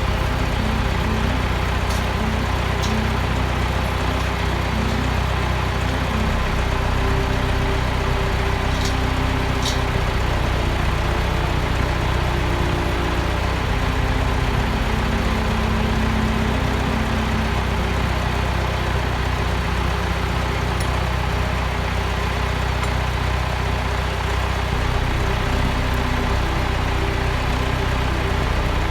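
An engine running steadily at an even speed, with a few faint clicks about two, three, nine and ten seconds in.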